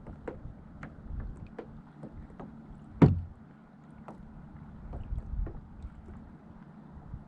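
Sounds aboard a kayak on the water: scattered small knocks and clicks against a low rumble, with one loud knock about three seconds in that rings briefly and low.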